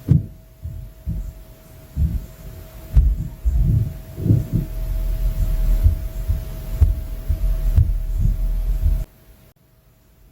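Inter-floor noise: dull, low thuds and thumps from the flat above, carried through the ceiling, coming irregularly and sometimes several in quick succession. A faint steady hum runs beneath them, and the low rumble cuts off suddenly near the end.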